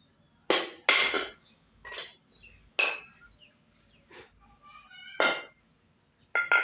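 Irregular sharp metallic knocks and clinks, about seven in all, some leaving a brief ringing tone, from metal parts being struck while a ceiling fan's bearing is worked on.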